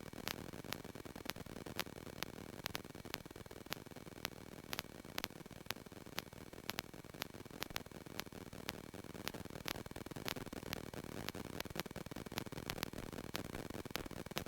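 Faint steady static hiss over a low hum, with sharp irregular crackling clicks, a few per second: line noise on the aircraft's intercom feed.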